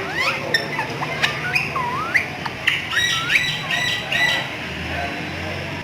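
Parrot squawking: a quick run of short, sharp calls, many sliding up or down in pitch, stopping about four and a half seconds in.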